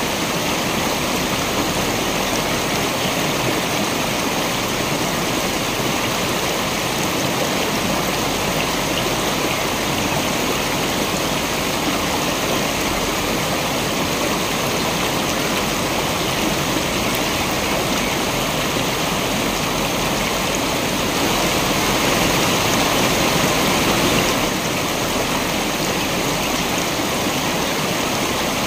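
Waterfall: a steady, even rush of falling water with no break. It swells slightly for about three seconds about three quarters of the way through.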